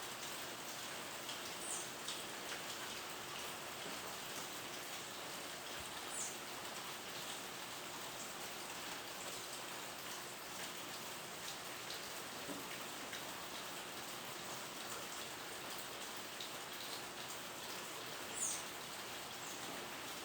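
Steady rain falling, with three short, high, downward chirps, the last and loudest near the end.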